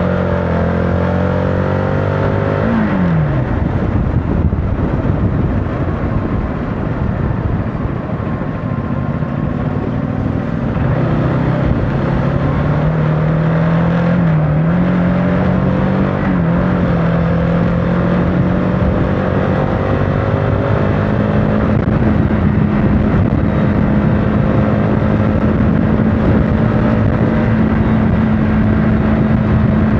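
CFMOTO motorcycle engine on the move, its pitch climbing and then dropping sharply about three seconds in. The pitch climbs again through two quick dips, like gear changes, and holds a steady cruise for the last third. Rushing wind and road noise run under it.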